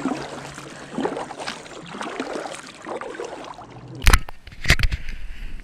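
A kayak being paddled through water, with irregular sloshing and splashing around the hull, then two loud sharp knocks about four seconds in.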